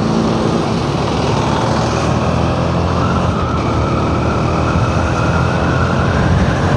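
KTM Duke 390's single-cylinder engine running while the bike is ridden, its pitch climbing slowly as it gathers speed, over a steady rushing noise.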